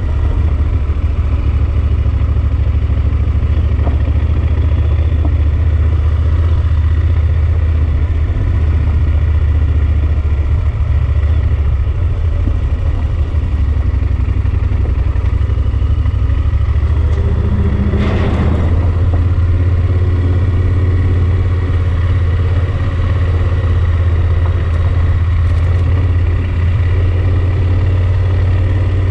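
Yamaha Super Ténéré XT1200's parallel-twin engine running at road speed under a steady low rumble. About eighteen seconds in there is a brief louder burst of noise.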